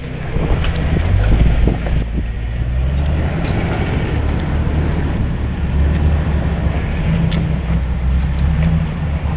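Off-road 4x4 truck engine running at low revs under load while crawling over rock, swelling a little now and then, with a few faint ticks.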